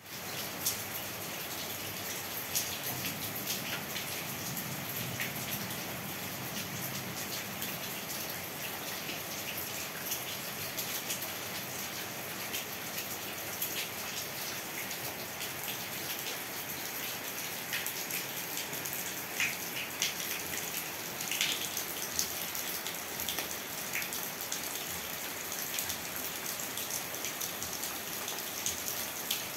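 Heavy rain falling: a steady hiss of rain with frequent sharp taps of drops striking nearby surfaces.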